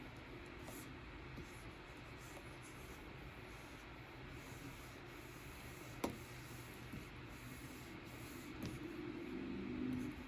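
Pen stylus rubbing and scratching across the screen of a Wacom Cintiq pen display in drawing strokes, with a single sharp tap about six seconds in and louder strokes near the end.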